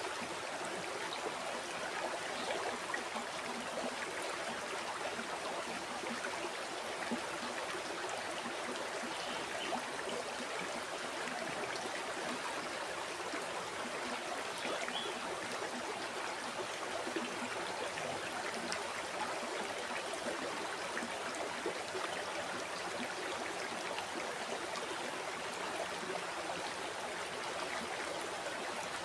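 River water flowing over rocks: a steady, even rush of burbling and splashing.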